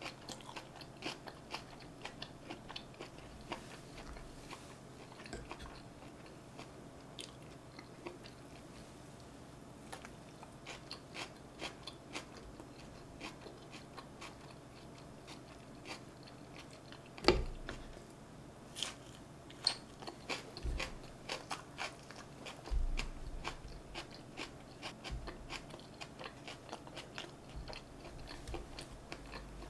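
Close-up chewing and biting of North Korean tofu rice (fried tofu pockets stuffed with rice), with many small wet mouth clicks. One sharper knock a little past halfway.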